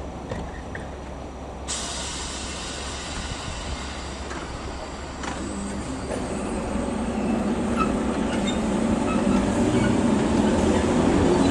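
A train approaching on the line, steadily growing louder over the second half, with a low rumble and a whine that rises in pitch near the end.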